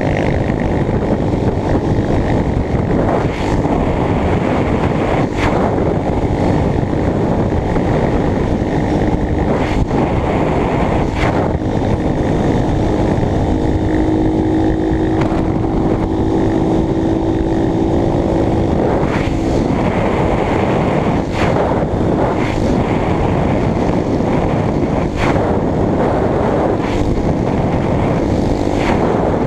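Steady wind noise on the microphone over a Honda CBX 250 Twister's single-cylinder engine running at cruising speed.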